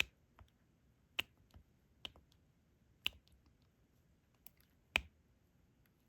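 Diamond-painting drill pen tapping drills down onto the canvas: five sharp little clicks about a second apart, with fainter ticks between them.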